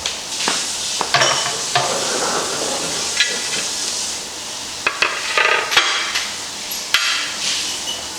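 Kitchen work during tomato canning: utensils and pots knocking and scraping in irregular clatters over a steady hiss.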